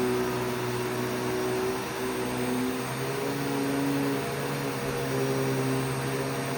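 Vacuum cleaner running on carpet: a steady motor hum with a broad airy hiss, its pitch shifting slightly a few times as the motor's load changes.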